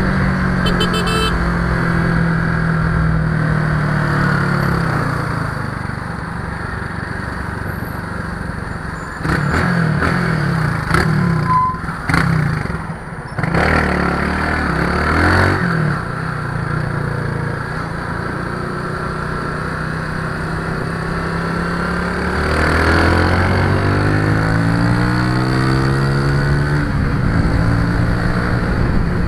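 Motor vehicle engine running steadily, its pitch dropping a few seconds in and climbing again near the end as it slows and speeds up. There is a stretch of clattering knocks in the middle.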